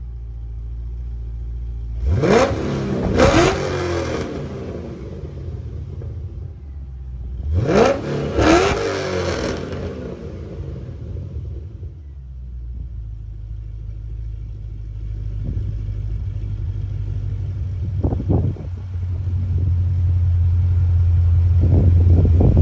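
HSV Clubsport R8's LS3 6.2-litre V8 idling with a low rumble, revved twice in quick double blips that rise and fall in pitch. Later come a couple of short throttle blips, and the low drone grows louder near the end.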